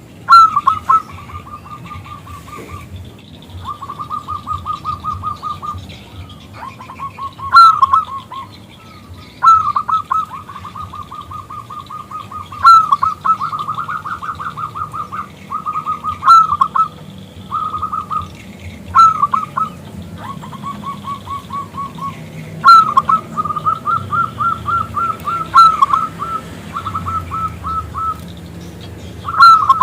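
Zebra dove (perkutut) cooing: a series of rapid trilled phrases, many of them opening with a sharp, louder accented note, repeated one after another with short gaps.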